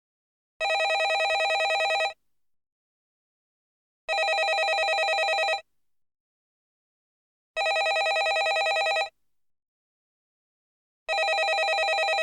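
Landline telephone ringing: four rings of about a second and a half each, about three and a half seconds apart, each with a fast rattling trill, and silence between rings.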